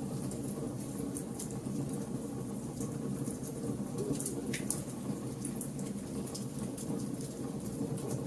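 Campfire logs burning, crackling with frequent small sharp pops over a steady low rumble of the flames.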